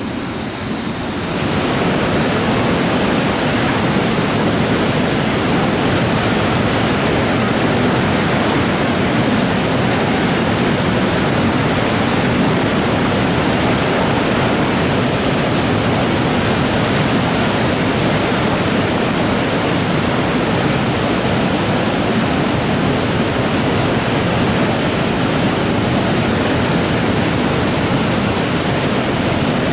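Typhoon-swollen river rushing past in flood, a loud, steady roar of fast water.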